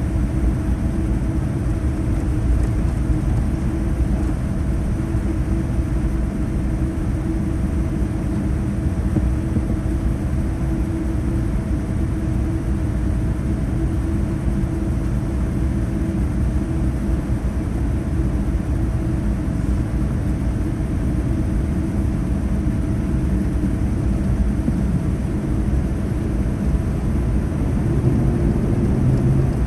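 Steady low rumble inside a Boeing 787-9's cabin on the ground after landing, with a faint steady hum. The rumble grows slightly louder near the end.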